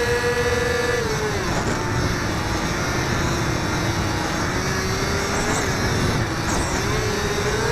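Electric motor and propeller of a HobbyZone Firebird Delta Ray RC plane whining, slowing to a lower pitch about a second in and winding back up near the end, over low wind rush.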